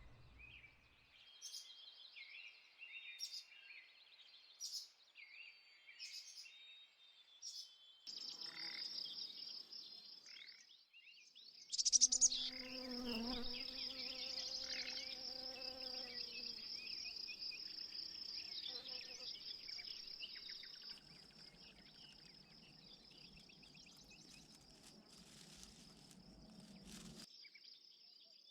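Insects chirring in the forest: short high chirps at first, then from about eight seconds in a steady, high-pitched, finely pulsing buzz. A louder pitched call comes in about twelve seconds in and lasts a few seconds.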